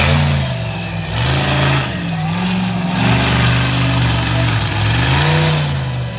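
Monster truck engine revving hard, its pitch rising and falling several times as the throttle is worked.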